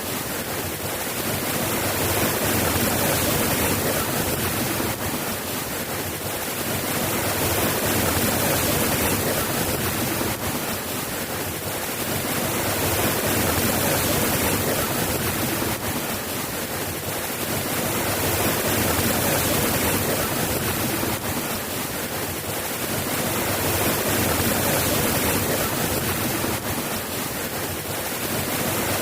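Soft steady rain, a dense even hiss that swells and eases gently every five or six seconds.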